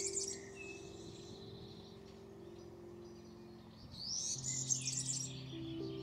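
A songbird singing two short, busy high phrases, one right at the start and one about four seconds in, over soft background music of held low notes.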